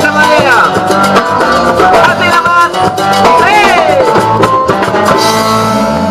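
Cumbia band playing live, instrumental: a lead melody with sweeping pitch bends over bass and a steady percussion beat.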